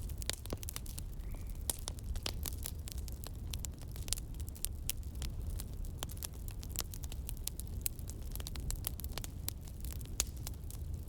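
Campfire crackling, with frequent sharp irregular pops and snaps over a steady low rumble.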